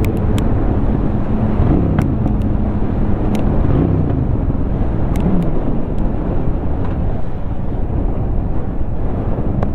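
Honda Shadow 750 V-twin engine running as the motorcycle rides along, its note dipping and rising a few times and climbing again near the end. Steady wind and road noise sits underneath.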